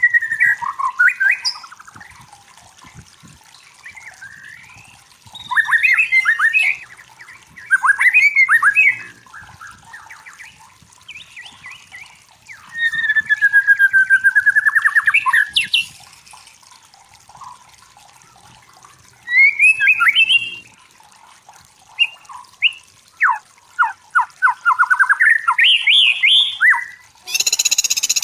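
White-rumped shama (murai batu) singing, with varied whistled and chattering phrases broken by short pauses. A brief harsh burst of noise comes near the end.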